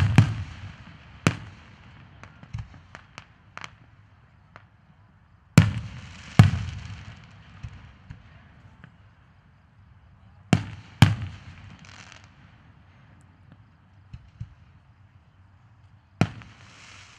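Aerial firework shells bursting with loud booms, mostly in pairs a second or less apart, about every five seconds, each followed by a fading rumble and hiss. Smaller pops come between the big bursts.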